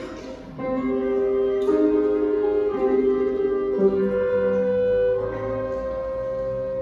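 Orchestra playing a slow melody in long held notes, with a brief drop in volume just after the start before the ensemble comes back in fully.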